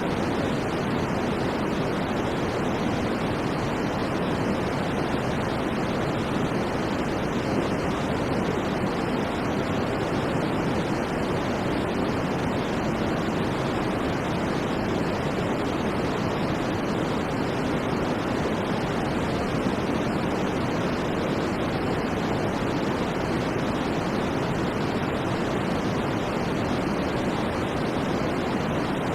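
Steady sleep-aid white noise: an even, unchanging hiss-like rush, fuller in the low and middle range than at the top.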